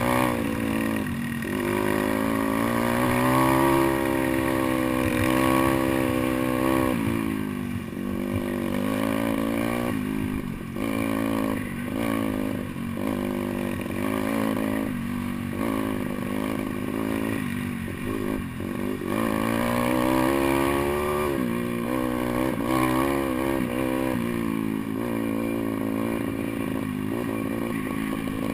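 Single-cylinder pit bike engine ridden off-road, its revs rising and falling over and over with short drops as the throttle is closed and gears change, with rattling and scraping over rough ground.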